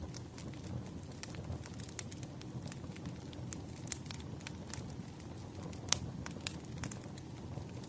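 Campfire crackling: irregular pops and snaps over a low steady rumble of burning wood, with one sharper pop about six seconds in.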